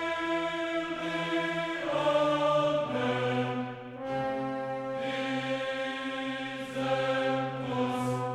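Classical choral music: a choir singing slow, sustained chords that change every second or two.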